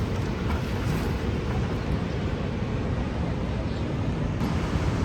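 Steady low roar of the Rhine Falls' rushing, cascading water, an even rumble with no breaks.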